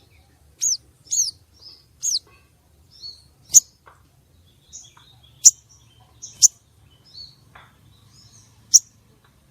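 Female sogon calling: a string of sharp, high chirps about a second apart, the first three sliding down in pitch, with softer twittering notes between them. It is the call used as a lure to rouse male sogon.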